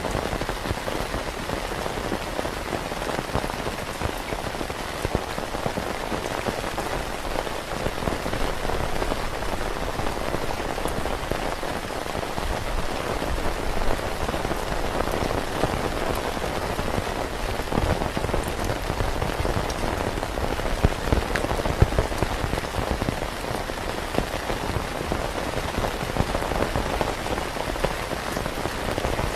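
Steady rain falling on a tent, a dense even patter of drops with no lulls.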